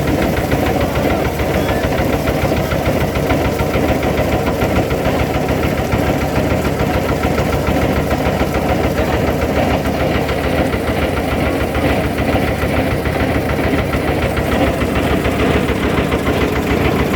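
Fishing boat's engine running steadily at a constant speed, with a rapid, even beat.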